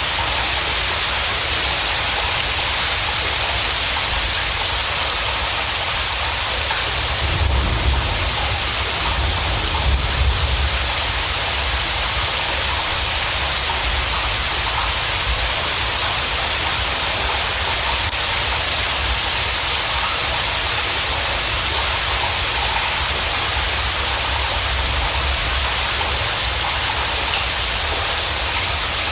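Steady rain falling, an even hiss of drops on a surface. Twice, around eight and ten seconds in, there is a louder low rumble.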